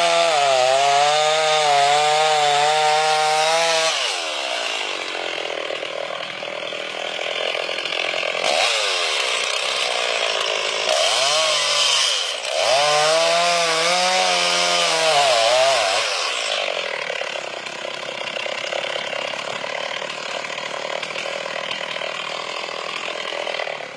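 Two-stroke chainsaw running hard and cutting wood, its engine pitch wavering and dipping under load. About two-thirds of the way through it drops to a quieter, steadier running with a hiss of cutting.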